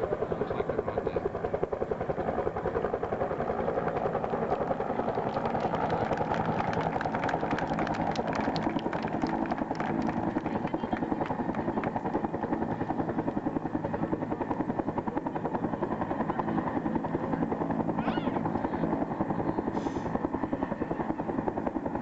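Bell HH-1N Huey helicopter in flight, its two-bladed main rotor chopping steadily.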